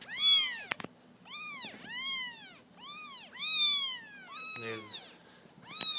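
Young kittens mewing repeatedly: about six thin, high-pitched mews, each rising then falling in pitch, with a single short click a little under a second in.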